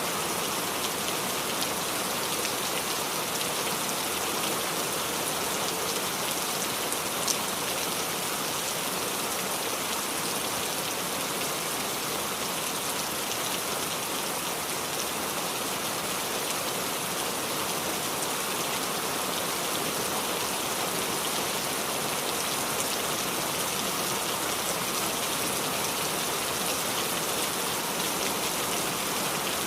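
Steady rain pattering and dripping on the leaves of a small tree, an even hiss with one sharper tick about seven seconds in.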